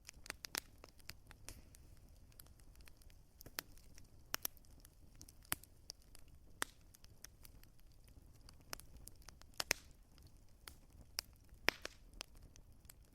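Wood fire crackling in a fireplace: irregular sharp pops and snaps over a low, steady rumble, with a few louder pops.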